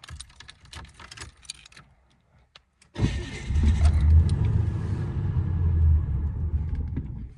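A car's engine cranked on a cold start: after a few faint clicks, it bursts into a loud low rumble about three seconds in, which lasts about four seconds and then dies down.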